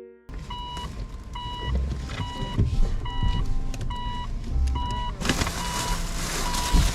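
A car's reverse warning beeper sounding inside the cabin: a short, steady beep repeating a little more than once a second over low engine and road rumble. About five seconds in a loud hiss comes in under the beeps.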